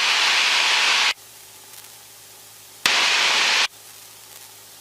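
Aircraft radio static heard over the headset intercom: a loud burst of hiss that cuts off about a second in, then a second burst just under a second long starting about three seconds in, each switching on and off abruptly like a keyed transmission carrying no voice. Between the bursts the engine's steady low drone is heard faintly through the intercom.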